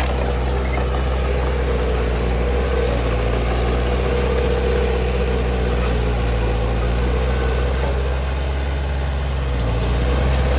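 Heavy diesel engine running steadily, with a deep low hum. It eases off briefly near the end, then picks up again.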